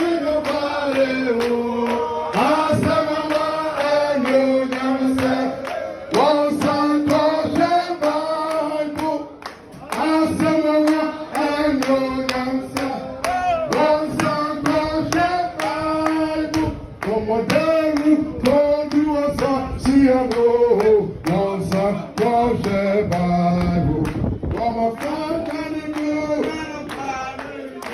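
A group singing a church hymn in unison, with steady hand clapping on the beat, about two claps a second.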